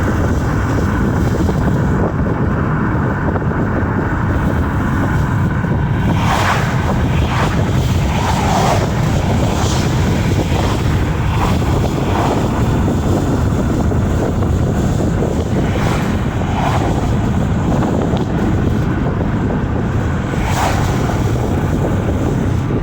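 Steady low road and wind noise inside a moving vehicle, with brief higher swishes now and then.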